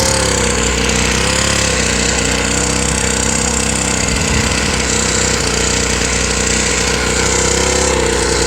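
Small gasoline engine of a mini motocross bike running steadily, its pitch wavering slightly in the first couple of seconds before holding even.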